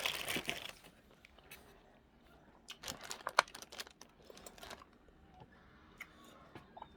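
Crinkling that fades within the first second, then a cluster of small clicks and crackles about three seconds in and faint scattered ticks after: the sound of handling a seafood boil, its plastic bag and shellfish at the table.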